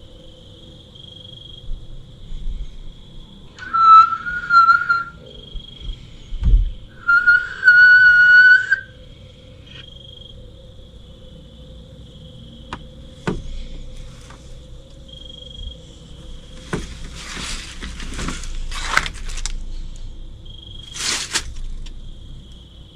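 Two long, steady whistled notes, the second rising slightly, used as a test call into the dark woods. Faint repeating insect chirps run underneath, and a few scratchy rustling noises come near the end.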